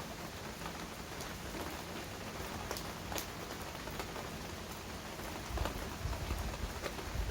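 Steady heavy rain falling, with scattered sharp drips close by. A low rumble comes in about five and a half seconds in.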